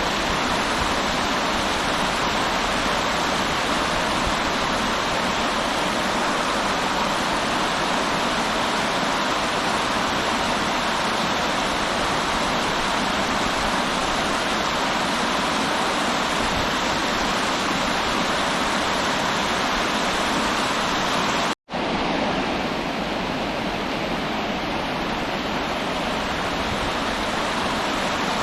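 River water rushing steadily, a loud even roar of flowing water. About 21 seconds in it cuts to silence for a split second, then resumes.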